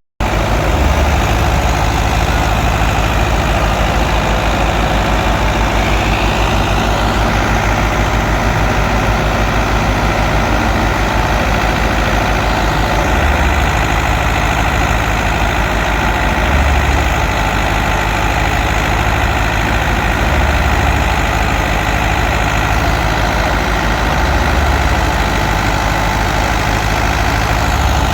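Fiat 640 tractor's four-cylinder diesel engine running steadily while driving a wheat thresher, the machine's steady working din over the engine's low beat.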